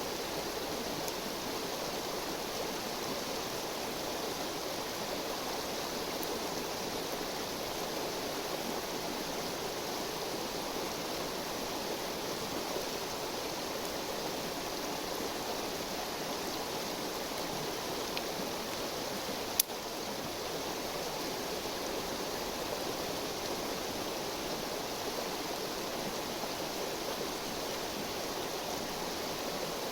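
River stream flowing steadily, with one sharp pop about twenty seconds in.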